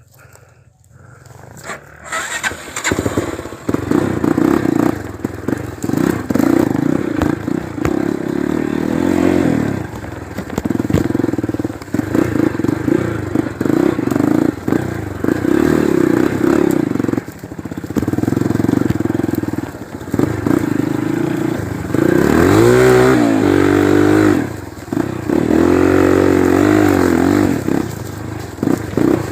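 Single-cylinder four-stroke trail motorcycle engine, quiet at first and then running loud from about two seconds in. Its revs rise and fall with the throttle, with a burst of revving near the two-thirds mark.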